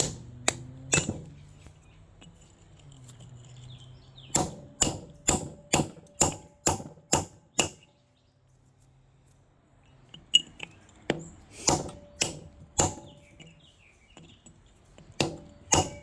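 A metal tool striking a large chunk of milky quartz, repeated sharp blows about two a second, in runs with a pause of a couple of seconds in the middle, some blows with a short metallic ring.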